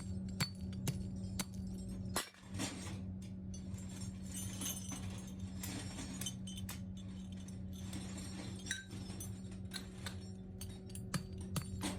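Workshop machinery humming steadily under irregular sharp metallic clinks and taps of metal parts being handled and struck. The clinks thin out for a few seconds near the middle.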